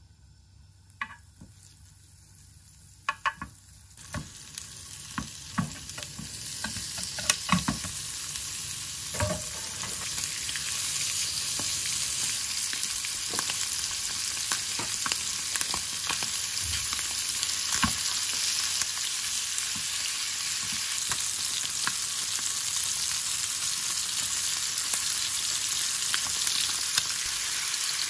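Chicken pieces sizzling in butter in a frying pan. A few sharp taps over quiet at first, then the sizzle builds over several seconds into a steady hiss, with occasional clicks of utensils on the pan.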